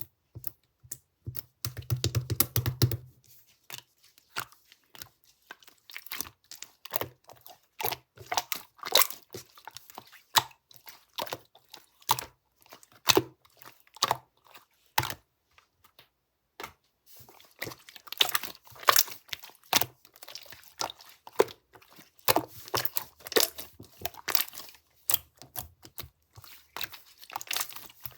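Slime being squished, pressed and pulled by hand, giving dense, irregular crackling and popping clicks, louder for a moment about two seconds in.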